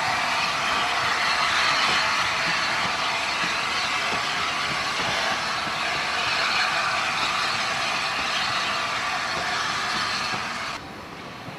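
Passenger coaches of a departing steam-hauled train rolling past on the rails, a steady noise that falls away suddenly near the end.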